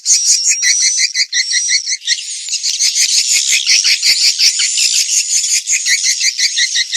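Swiftlet lure call: dense chattering of many edible-nest swiftlets, a fast stream of short high chirps, with a thin steady whistle-like tone during the first second.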